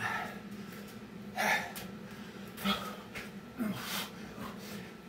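A man breathing hard and gasping from exertion during burpees, one sharp breath about every second and a half, over a faint steady low hum.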